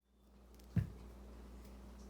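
A single dull thump a little under a second in, over a steady low hum.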